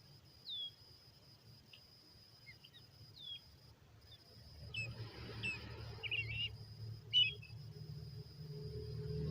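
Short, high, downward-sweeping bird chirps, a few scattered ones and then a quick cluster, over a steady high insect drone. A low rumble builds in the second half.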